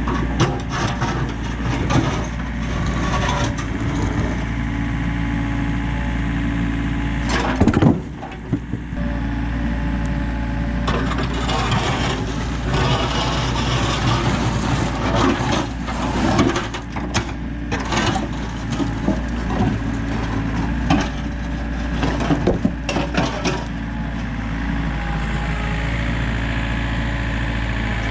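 Komatsu excavator's diesel engine running steadily while the bucket breaks and drags slabs of old concrete, with repeated heavy clunks and scraping. The loudest knock comes about eight seconds in.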